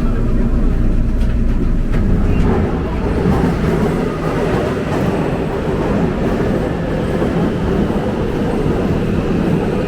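Subway train running on the rails. A deep rumble gives way to a higher, steady rushing noise about two seconds in.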